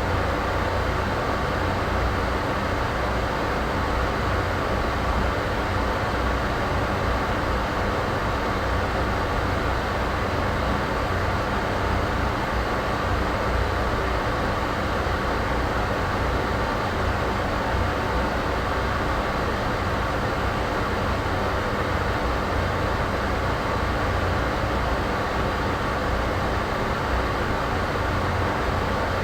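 Steady ambient noise with a low rumble, unchanging throughout, like the drone inside a moving vehicle or train.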